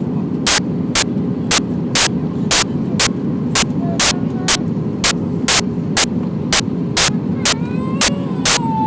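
Airbus A319 on final approach: a steady low rumble of engine and airflow noise, cut by sharp clicks about twice a second. Near the end a whistling tone comes in, falling slightly in pitch.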